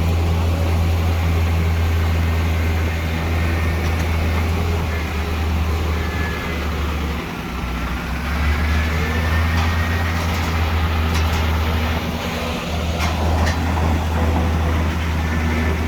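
Heavy diesel earthmoving machinery running, a loud steady low drone that dips briefly twice, with a few sharp clicks past the middle.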